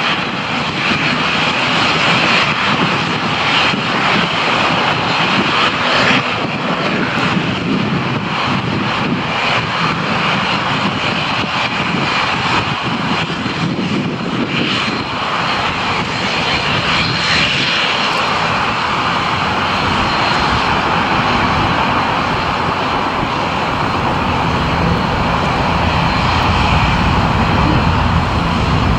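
Aircraft engines running loud and steady, with a low rumble that grows stronger in the second half.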